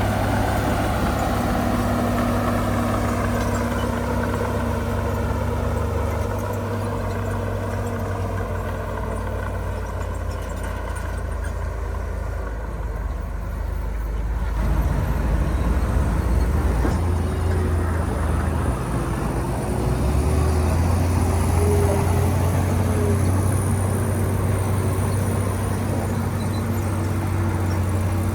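Heavy diesel earthmoving machinery running under load, its engine drone rising and falling in pitch, louder from about halfway through, with a faint high whine in the second half.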